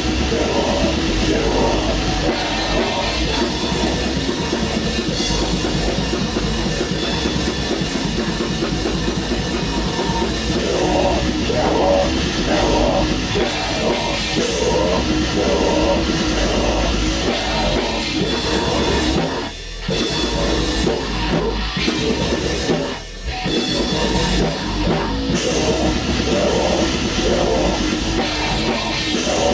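Black metal band rehearsing: drum kit and distorted guitar playing loud heavy music, with two brief breaks about 20 and 23 seconds in.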